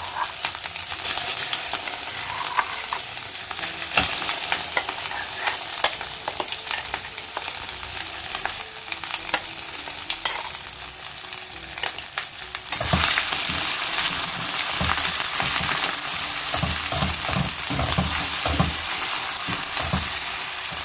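Hot ghee sizzling in a steel pan as ground red chilli masala paste is scraped in from a mixer jar with a spoon, with scattered clicks of metal on metal. About two-thirds of the way in the sizzle gets louder, and a wooden spatula stirring the paste knocks against the pan about twice a second.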